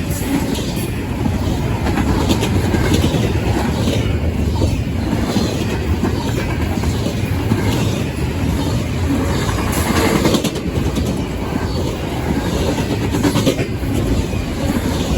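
CSX intermodal freight train rolling past close by: a steady, loud rumble of cars with wheels clicking over the rail joints.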